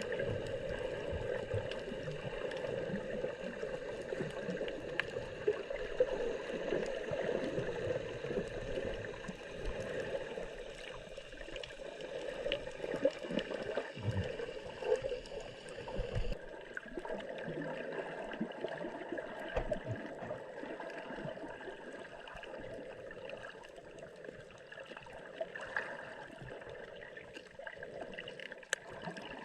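Water gurgling and sloshing steadily, with occasional small knocks.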